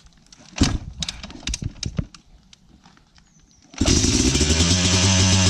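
A few knocks, then a Yamaha YZ250 two-stroke dirt bike engine fires up suddenly nearly four seconds in and keeps running steadily on choke after a cold start.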